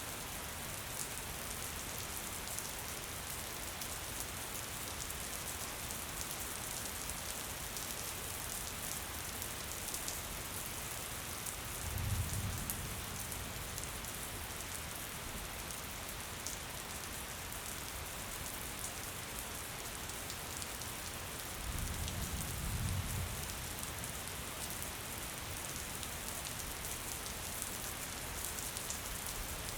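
Steady gentle rain falling, a dense even patter of drops. Twice, around twelve and twenty-two seconds in, a brief low rumble rises under the rain and fades.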